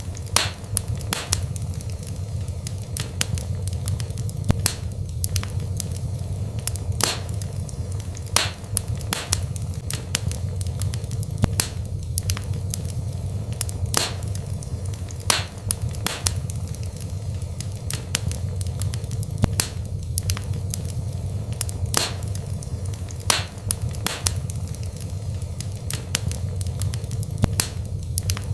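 Wood fire burning in a fireplace: sharp crackles and pops at an irregular pace, about one or two a second, over a steady low rumble of the flames.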